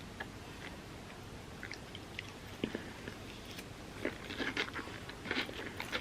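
Close-miked eating: a mouth chewing overnight oats topped with pistachio kataifi and set chocolate, with small crunches and wet mouth clicks. The sounds are sparse at first and come thick and fast from about four seconds in.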